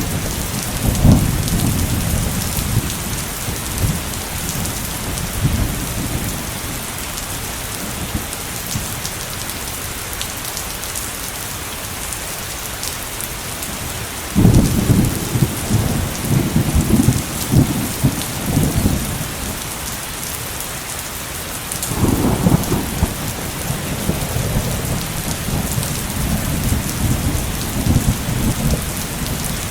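Heavy downpour of rain, a steady hiss, with thunder rolling through it: a rumble dying away over the first few seconds, a sudden loud peal about halfway that rumbles on for several seconds, and another rolling rumble from about two-thirds in.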